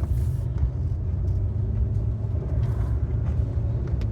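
Car driving on a wet mountain road, heard from inside the cabin: a steady low rumble of engine and tyres, with a few faint ticks.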